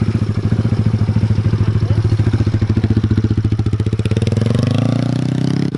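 Small single-cylinder four-stroke pit bike engine running at a low, steady speed with an even pulsing beat, then revving up with a rising pitch from about four seconds in.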